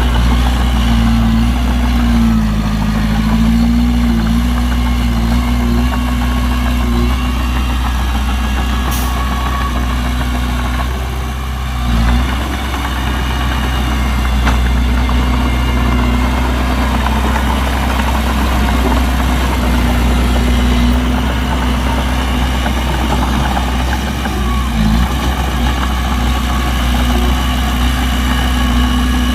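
Heavy diesel engine of a working dump truck or bulldozer running steadily at low speed, its pitch wavering briefly a few times, with a short dip in loudness about twelve seconds in.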